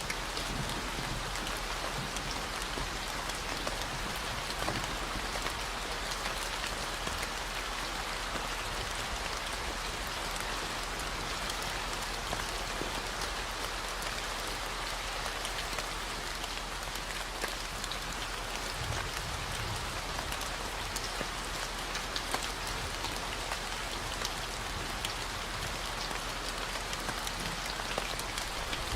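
Steady rain falling, an even hiss of drops, layered with a continuous low 40 Hz tone.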